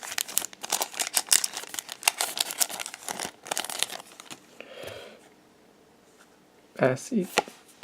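A foil trading-card booster pack wrapper being torn open and crinkled for about four seconds, then a brief softer rustle before it goes quiet.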